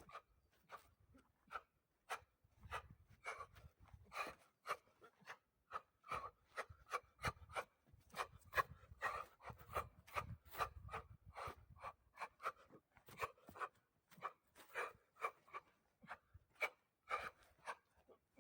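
Irregular short scuffs and taps, a few a second, of a person moving through wushu forms: feet on the ground and clothing swishing, with a low rumble at times.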